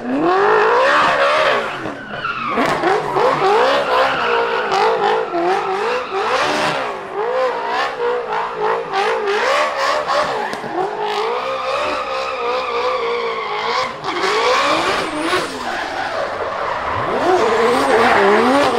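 Drift car engine revving hard, its revs rising and falling rapidly as the throttle is worked, with tyres squealing and skidding through a slide.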